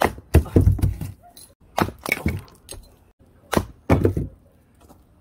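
An axe splitting firewood: sharp blows roughly every two seconds, each with a thud and the crack of the wood splitting.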